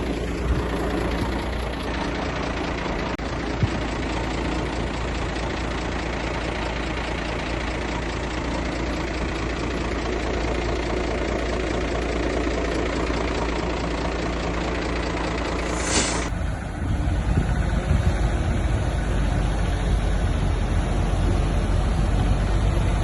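Diesel engine of heavy earthmoving machinery running steadily. About 16 seconds in the sound changes abruptly to a deeper, slightly louder rumble.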